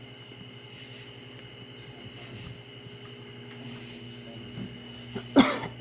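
Turbocharged LS V8 in a Chevrolet S10 idling steadily, freshly fired up and still being tuned. A short, loud pitched sound cuts in near the end.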